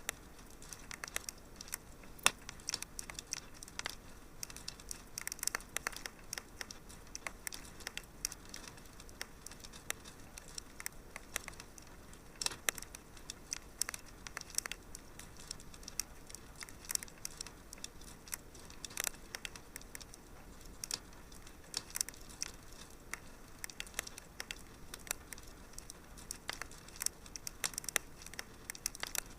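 Wood fire crackling in a fireplace: frequent irregular pops and snaps over a soft steady hiss.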